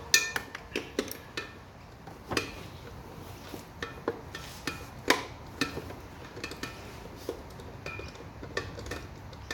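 Hand tools clinking and tapping against metal on a lawn mower: irregular sharp metallic clicks and knocks, some ringing briefly, as a socket and wrench are worked onto a belt-cover bolt.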